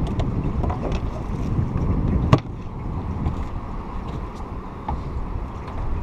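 Steady low rumble of a fishing boat running on the river, with scattered small clicks and one sharp knock a little over two seconds in, after which the rumble is a little quieter.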